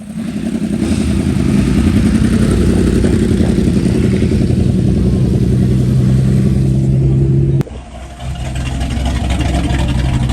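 Loud car exhaust, the engine held at a steady high rev. It cuts off abruptly about three-quarters of the way through, then builds back up.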